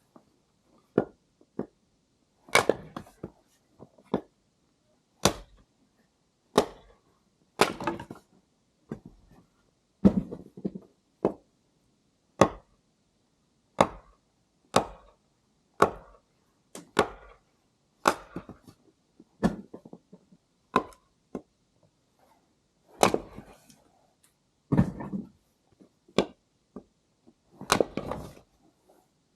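Firewood being chopped with an axe: a long series of sharp wooden strikes, about one every second or so, some much louder than others.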